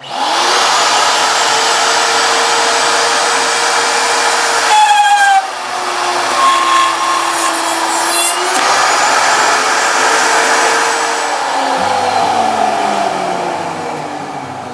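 Router motor switching on abruptly and running at speed with a steady high whine. About halfway through its pitch dips and recovers, and background music fades in near the end.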